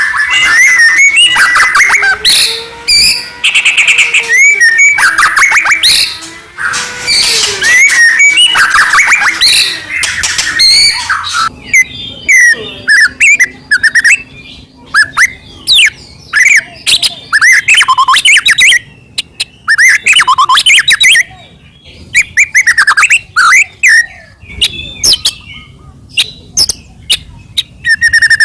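White-rumped shama (murai batu) in full song: a loud, varied run of rapid trills and whistles. About halfway through it breaks up into separate whistled phrases and sharp chirps with short pauses between them.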